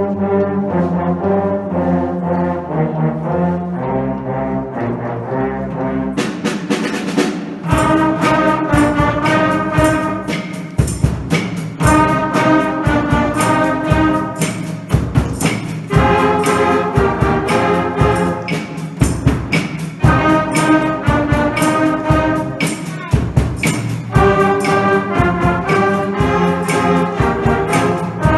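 Wind band playing a blues piece: sustained low brass chords at first, then about six seconds in the full band comes in with a steady beat.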